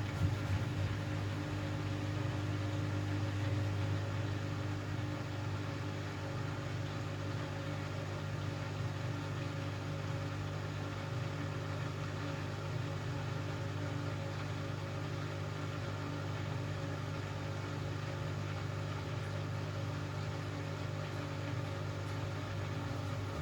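Hoover Axi 9kg washing machine running with a steady, even hum.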